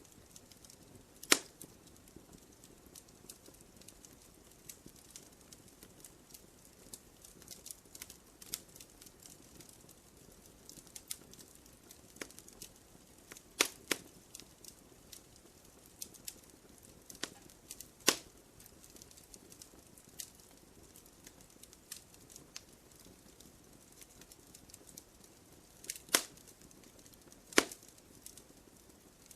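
Wood fire crackling in a fireplace: irregular sharp pops and snaps over a faint hiss, with a few louder pops about a second in, midway through and twice near the end.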